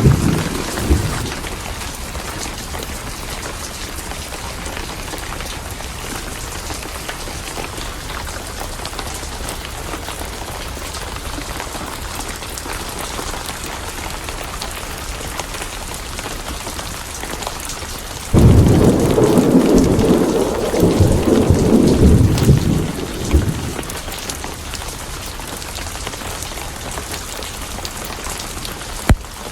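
Steady rain with thunder. A rumble fades out in the first second, and a loud thunderclap breaks in suddenly about 18 seconds in, rolling for about five seconds before dying away.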